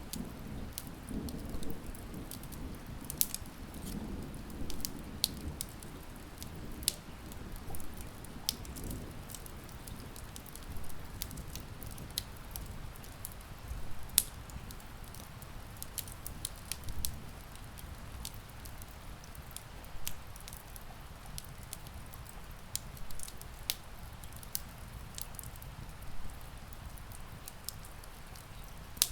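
Steady rain pattering on a window mixed with a crackling wood fire: a continuous hiss of rain with scattered sharp pops and crackles from the fire, and a soft low rumble in the first few seconds.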